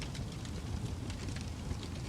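Wood fire in a fireplace burning with a steady low rumble and many small, sharp crackles and pops scattered through it.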